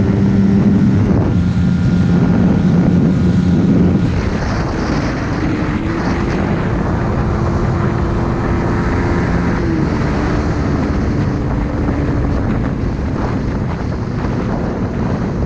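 Suzuki Raider R150 Fi motorcycle's single-cylinder engine running while under way, freshly past its break-in. The engine note drops about four seconds in, then rises and later falls again as the revs change.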